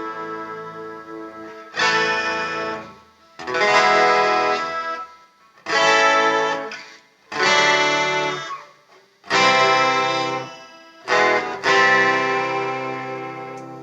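Electric guitar played through a Gallien-Krueger 250ML amplifier: about seven strummed chords, each struck and left to ring out and fade before the next.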